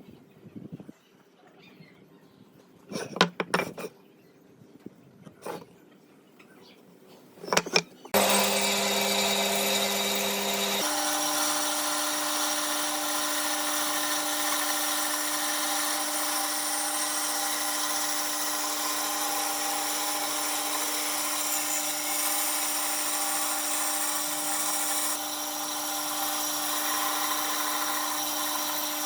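A few knocks and clatter of wood being handled, then an electric power tool starts about eight seconds in and runs steadily, its pitch stepping up about three seconds later.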